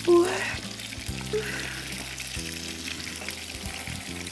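Breadcrumbed camembert frying in plenty of hot oil in a pan, with a steady sizzle over background music. A short, loud rising tone sounds just at the start.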